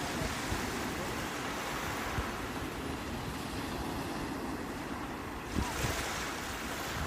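Sea waves washing on the shore in a steady surf hiss, with one wave breaking louder about five and a half seconds in.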